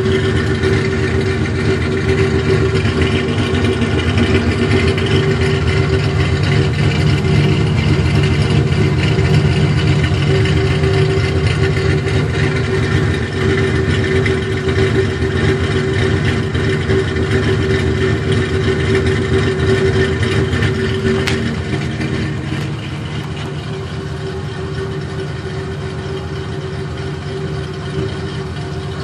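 Car engine running steadily through a newly fitted exhaust, a constant drone with no revving. About two-thirds of the way through it drops a little in level and stays quieter.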